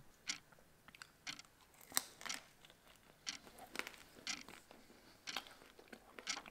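A person chewing battered, deep-fried squid rings with mouth sounds close to the microphone: faint, irregular crunches about once a second.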